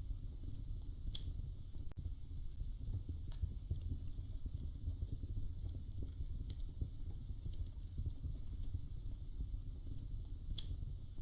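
Wood fire crackling in a fireplace: a steady low rumble with about five sharp pops a couple of seconds apart.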